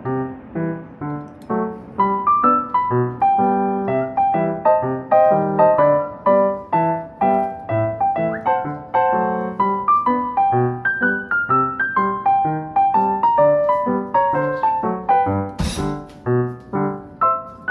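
Background piano music: a steady run of single notes and chords. A single sharp click sounds about three-quarters of the way through.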